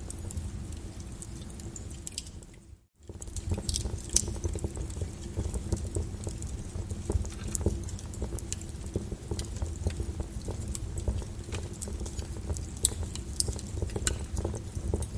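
Wood fire crackling in a fireplace with sharp pops and a low rumble, over rain pattering steadily. About three seconds in the whole sound fades almost to nothing for a moment, then comes back.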